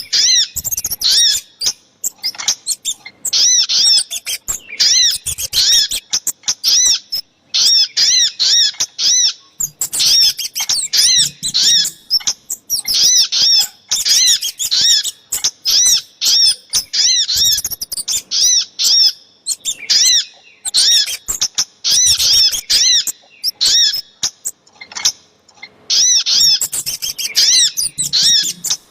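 Small songbirds calling in rapid phrases of short, high, arched chirps, several a second, broken by brief pauses. This is a bird-lure recording combining sogok ontong (sunbird) and kemade calls, including the female sogok ontong's call to the male.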